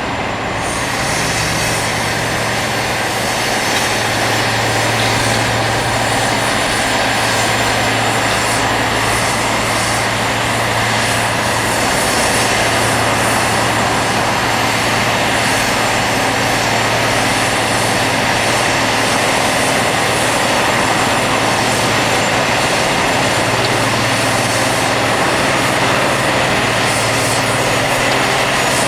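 Rail grinding machine at work: a loud, steady grinding hiss of stones against the railhead over the low drone of its engines.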